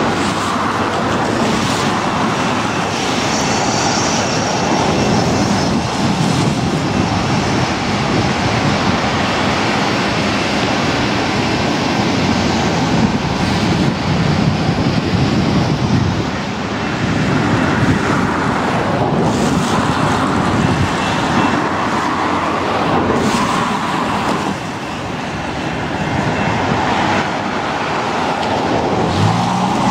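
A freight train of loaded open-top coal cars rolling past on the rails, a steady rumbling noise, mixed with road traffic on wet pavement.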